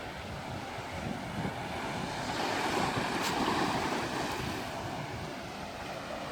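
Rushing open-air noise that swells in the middle and fades again, with one sharp pop about three seconds in.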